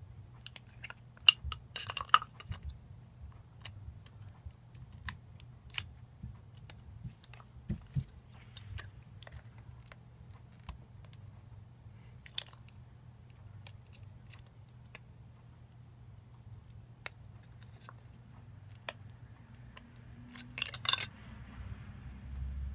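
Small, scattered clicks, taps and scrapes of tools and parts being handled while a lightsaber replica is taken apart, with a short scraping rustle about two seconds in and another near the end.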